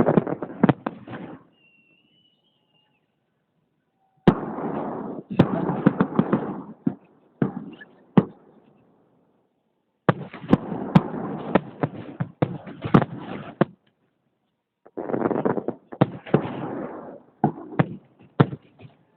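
Fireworks salute: four rapid volleys of exploding shells, each a dense run of sharp cracks and crackle lasting two to four seconds, with short pauses between them.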